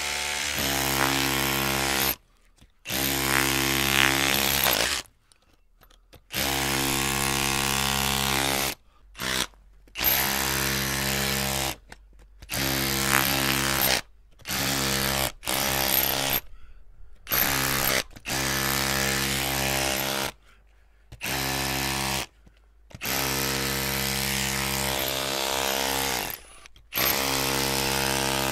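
Electric drill motor running with a steady whine, switched on and off repeatedly in bursts of about half a second to a few seconds with short silent gaps between.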